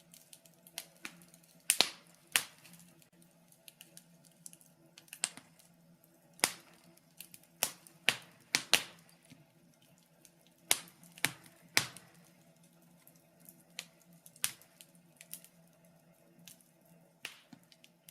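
Wood fire in a fireplace crackling: irregular sharp pops and snaps, a few every couple of seconds, some much louder than others, over a faint steady hum.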